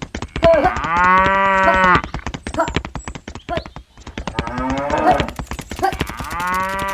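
Cow mooing twice, one long call about half a second in and another near the end, over a dense rapid clicking.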